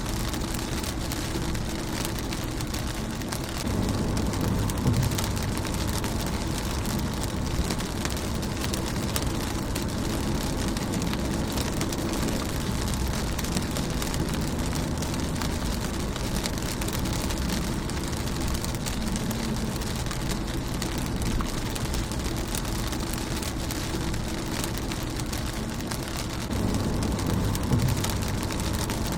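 Rain falling on a car windshield: a steady hiss of rain with many small drop ticks. A deeper low rumble swells for a couple of seconds about four seconds in and again near the end.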